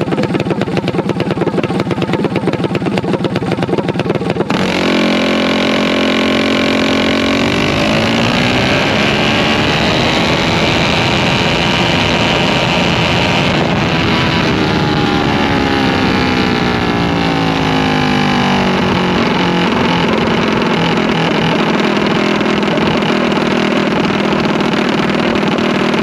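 A vehicle engine runs with a rough, pulsing beat. About four and a half seconds in it switches abruptly to a smooth, high-revving run that climbs in pitch and holds, falls in pitch over several seconds, then runs steady.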